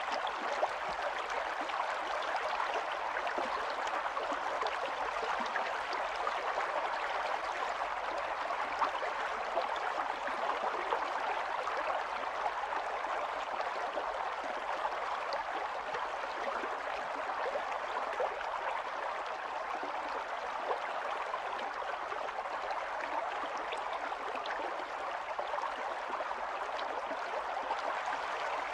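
Small stream of running water, flowing and gurgling steadily.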